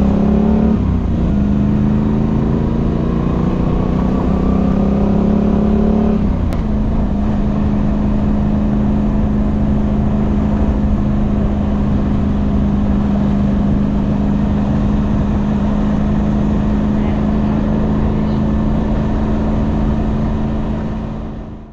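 Moto Guzzi V85TT's air-cooled transverse V-twin accelerating, its note rising for about six seconds, then dropping with an upshift and settling into a steady cruise, over a steady rush of wind and road noise.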